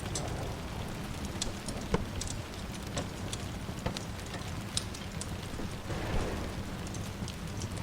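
Steady rain with a wood fire crackling, sharp pops scattered through it.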